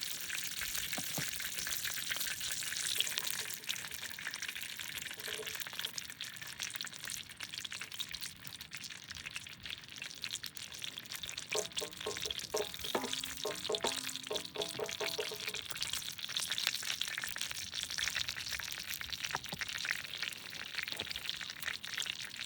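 Food sizzling and crackling in a pan over a campfire, a steady frying hiss full of fine pops. A brief run of short pitched notes sounds in the middle.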